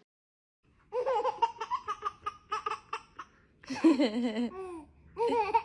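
A baby laughing in repeated giggles and belly laughs, short bouncing bursts that start about a second in, with a louder, lower laugh near the middle.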